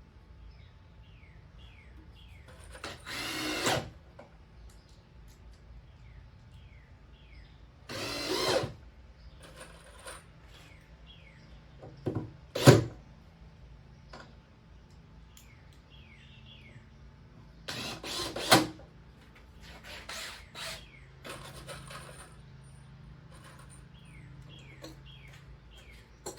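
Power drill driving screws through caster-wheel plates into a 2x6 wood frame, in three short runs of about a second each, with a sharp knock in between.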